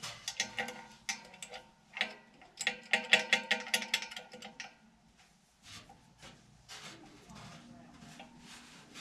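Rapid sharp metallic clicks and ticks with a ringing tone, dense for the first four and a half seconds and then sparser and fainter: tool work on a sheet-metal furnace blower's motor mount bracket.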